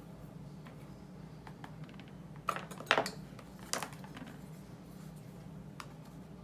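Light clicks and knocks of painting tools being handled, with a short burst of louder clatter about two and a half to three seconds in and another just before four seconds, over a steady low hum.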